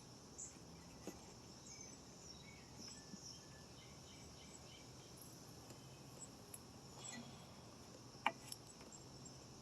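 Near silence: faint insect chirping in the background, with a few faint clicks, the clearest about eight seconds in.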